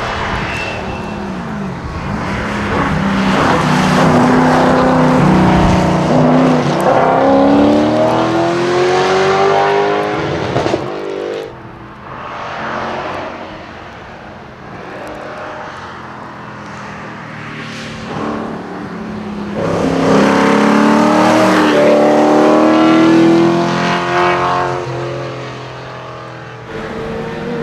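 Rally cars being driven flat out past the microphone, twice: each time the engine note climbs in pitch as the car accelerates. The first pass cuts off abruptly about eleven seconds in.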